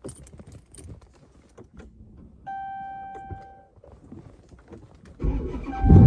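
Clicks and key rattle, then an electronic beep held for about a second. Near the end the straight-piped 5.7 L Hemi V8 of a 2014 Dodge Charger R/T cranks and starts, getting loud all at once.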